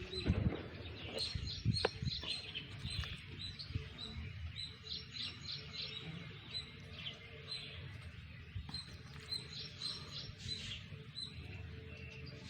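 Small birds chirping in short repeated notes throughout, with a few knocks in the first two seconds.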